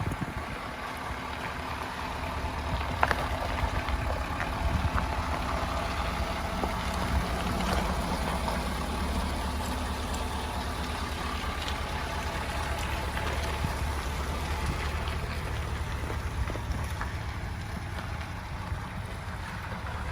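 Ford F-250 Super Duty pickup driving on a dirt trail: a steady low engine and tyre drone with occasional small knocks and rattles.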